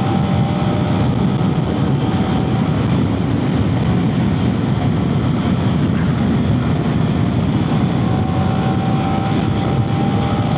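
Heavy wind blast buffeting a helmet-mounted mic on a KTM Duke 250 riding at speed, a steady low rush. The single-cylinder engine's note comes through faintly at the start and again near the end.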